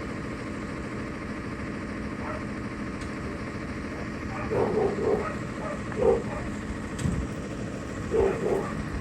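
A dog barking in short bursts, two or three about halfway in, one a second later and a pair near the end, over a steady engine idling.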